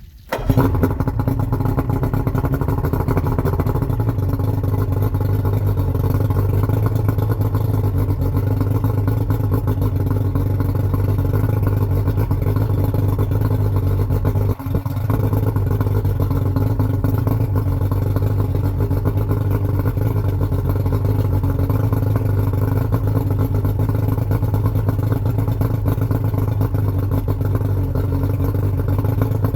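Yamaha 115 hp V4 two-stroke outboard motor catching and starting up, then running steadily, with one brief dip in its note about halfway through.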